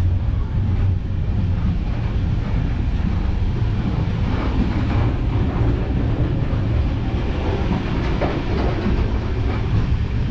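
Passenger train running along the track, heard from inside the carriage: a steady low rumble of the wheels on the rails.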